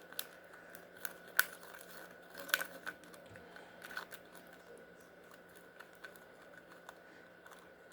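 UV resin with glitter being stirred in a small cup: scattered light clicks and taps of the stir stick against the cup, sharpest about one and a half and two and a half seconds in and sparser later. A faint steady hum runs underneath.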